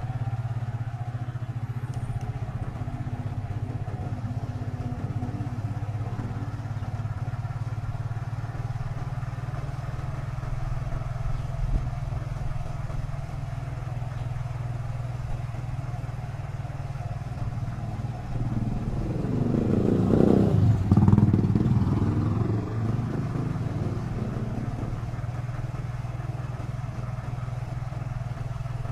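Motorcycle engine running steadily at low speed as the bike is ridden through a narrow alley. About twenty seconds in, a louder engine sound swells and fades over a few seconds.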